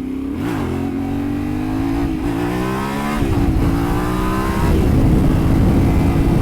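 Yamaha Ténéré 700's parallel-twin engine accelerating hard through the gears, its pitch climbing and dropping back at four upshifts. Wind rush builds as the speed rises.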